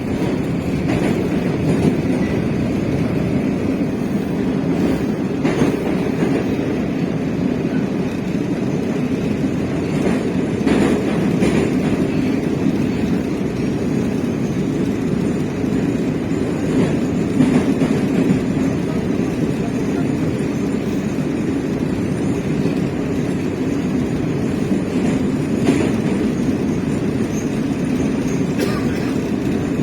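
Moscow Metro train running between stations, heard from inside the carriage: a steady low rumble of wheels and traction motors, with a few faint clacks as the wheels cross rail joints.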